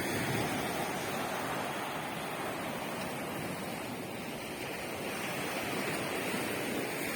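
Sea waves breaking and washing on the shore, a steady rushing surf that swells and eases slowly, on a rough morning with choppy waves.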